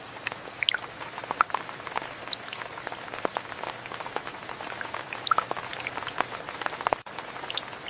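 Rain falling, with many scattered drops and drips ticking irregularly on nearby surfaces over a steady patter.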